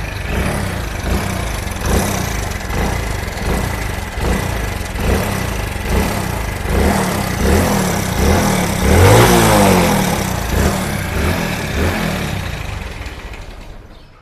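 Hero Honda Splendor motorcycle's single-cylinder four-stroke engine running noisily, with a pulse about once a second and a rise in revs about nine seconds in, then dying away near the end. The mechanic traces the noise to worn, loose bearings and a bad shaft.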